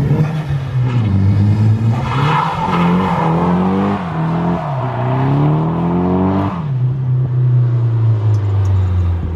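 Nissan S13's turbocharged SR20DET four-cylinder engine accelerating through the gears. Its pitch climbs and drops at shifts about four and six and a half seconds in, then holds steady.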